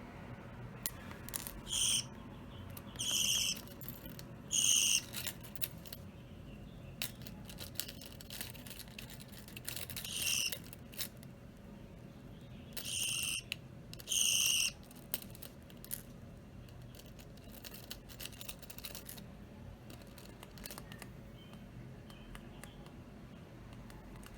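Budgerigars giving short, high, harsh calls, about six of them in the first fifteen seconds, over scattered small clicks and taps.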